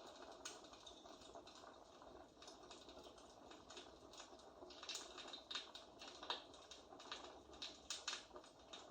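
Faint fireplace crackling: a steady soft hiss with irregular sharp crackles and pops, coming more thickly between about five and eight seconds in.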